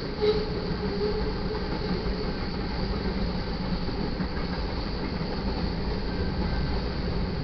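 Freight cars of a manifest train rolling steadily past a grade crossing: a continuous rumble of steel wheels on rail, with a brief louder clank or squeal just after the start.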